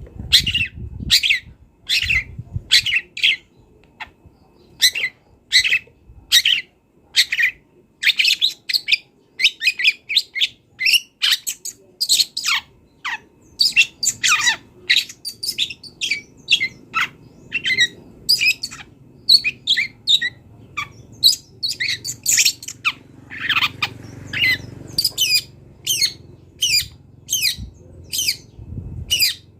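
Long-tailed shrike singing a fast, nearly unbroken run of short, sharp, scratchy notes, many of them sliding downward. This is the shrike's full song, packed with phrases mimicked from other birds.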